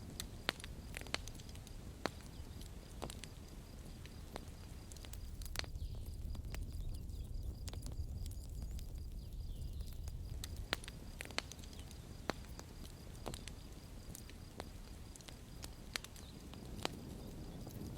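Wood fire crackling: irregular sharp pops and snaps of burning wood over a low steady rumble of the flames.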